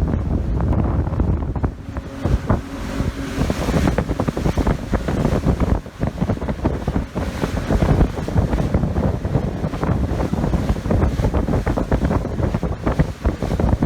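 Wind buffeting the microphone aboard a moving boat, a loud, gusty rumble that stays strong throughout.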